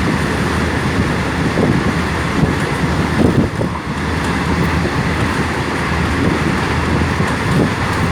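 A train running along the rails: a steady rumble with uneven low knocks and a dip in loudness about three and a half seconds in.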